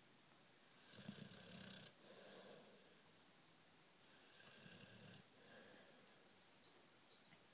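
Blue-nose pit bull snoring faintly in its sleep. Two slow snoring breaths, each a louder part lasting about a second followed by a shorter, softer one.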